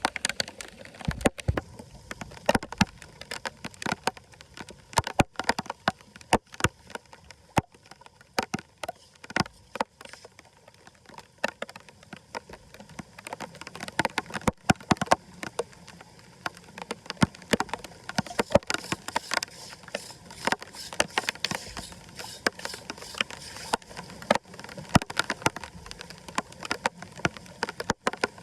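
Floodwater running into a drain, with many sharp, irregular clicks and knocks throughout.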